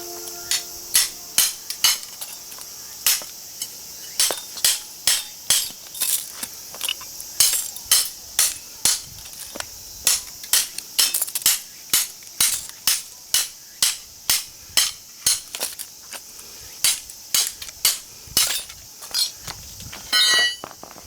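Hammer blows on metal, struck about twice a second again and again, in an attempt to knock a small transformer's copper winding loose from its iron core. A short rattling clatter comes near the end, and crickets chirp steadily behind.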